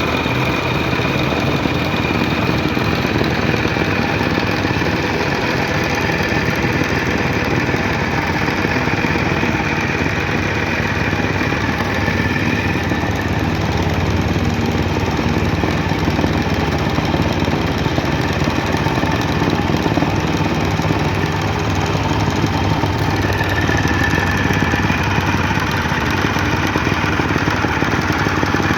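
Soil compaction machine running steadily, its engine and rapid repeated impacts making one continuous, unbroken beat.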